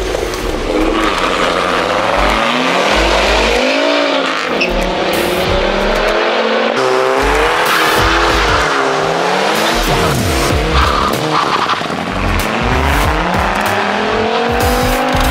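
Several street-racing cars launching hard one after another, their engines revving up with rising and falling pitch as they accelerate through the gears and pull away.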